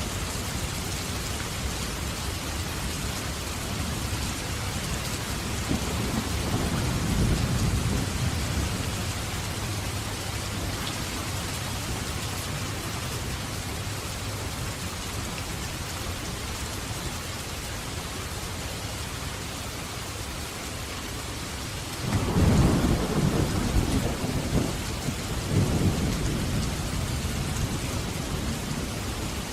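Steady heavy rain falling, with thunder: a low rumble swelling about a quarter of the way in, and a louder thunderclap near the end that rolls on for several seconds.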